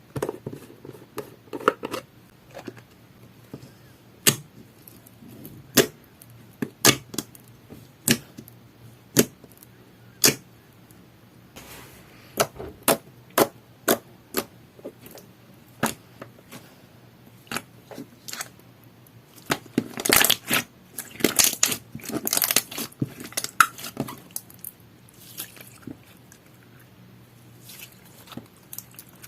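Clear slime made with aloe soothing gel being pressed and squeezed by hand, giving sharp separate pops and clicks at irregular intervals. About two-thirds of the way through the pops crowd into a denser, crackling run.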